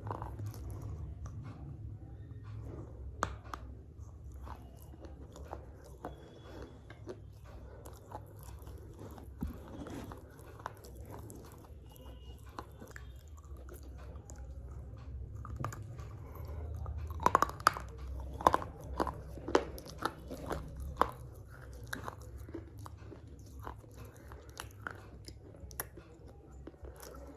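Dry red clay of a miniature clay pot (handi) being crunched, crumbling in many irregular crisp cracks, with a run of louder crunches about two-thirds of the way through.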